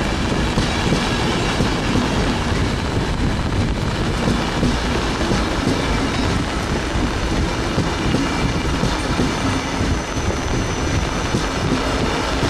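Train running along the track with a steady, continuous rumble and rattle.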